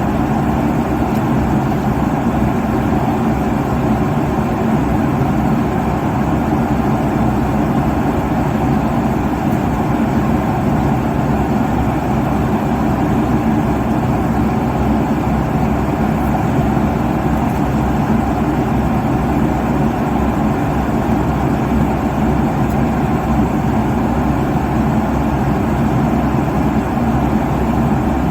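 Steady cabin noise of an airliner cruising at altitude: a constant low rush of airflow and jet engines, unchanging throughout.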